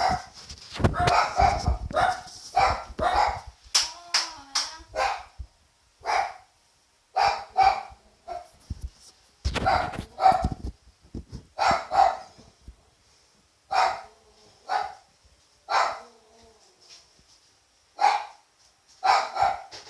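A dog barking repeatedly, one sharp bark every second or two, with a busier run of barks in the first few seconds.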